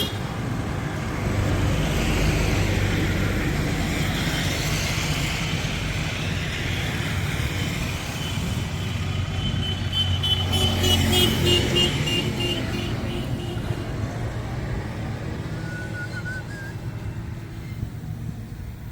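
Tractor engine running steadily, swelling louder twice, with a thin high whine when it is loudest, about ten to thirteen seconds in.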